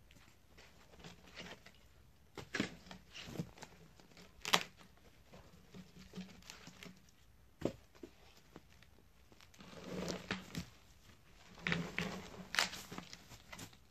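Scattered sharp snaps and knocks mixed with rustling, from dry dead wood and brush being handled, with the loudest snap about four seconds in.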